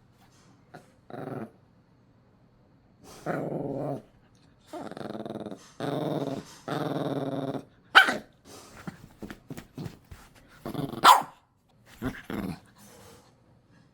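A dog growls over its toy as it is being taken away, a sign of guarding it. There are several long growls, then two sharp barks about eight and eleven seconds in, with short snarls between them.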